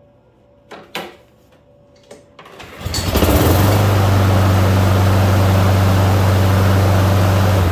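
Honda HRX217 lawn mower's GCV200 engine pull-started: a few sharp clicks, then the engine catches about three seconds in and runs steadily and loudly.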